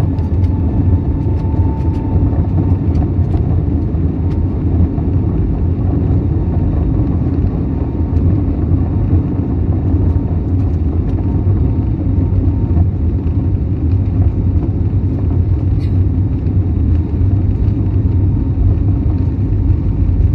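Airliner cabin noise: a steady, loud low rumble of engines and airflow heard from inside the passenger cabin.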